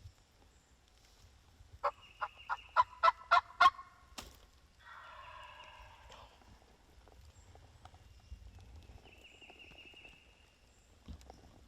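Wild turkey calling: a run of about eight sharp yelps that get louder, then a fainter gobble lasting about a second and a half.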